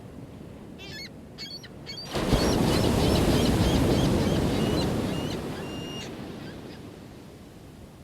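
Ocean wave crashing on the shore about two seconds in, its wash slowly fading over several seconds, over a low steady surf. High, quick bird calls sound above the surf before and during the crash.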